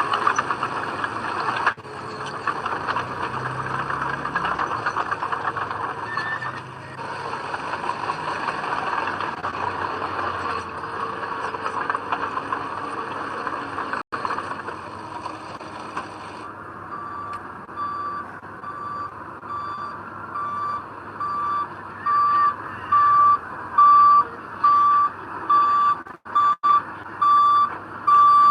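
Heavy diesel earthmoving machinery running steadily. Just past halfway a vehicle's reversing alarm starts beeping about once every 0.8 seconds, getting louder toward the end, as a truck or dozer backs up.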